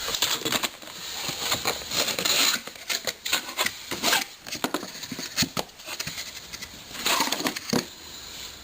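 Packaging and boxed engine parts being handled: irregular rustling and crinkling with light clicks and knocks throughout.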